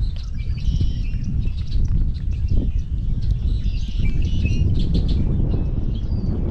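Several birds chirping and calling in quick, scattered notes, over a steady low rumble of wind on the microphone.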